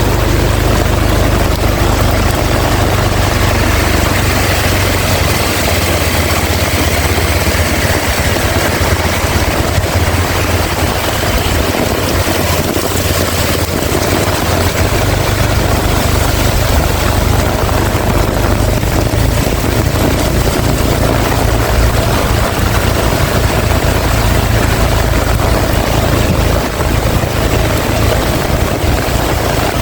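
Heavy rain falling steadily, with strong wind rumbling on the microphone.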